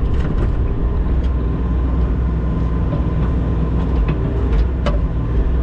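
A large engine running steadily at a constant speed, with a few light knocks on top, one sharper just before the end.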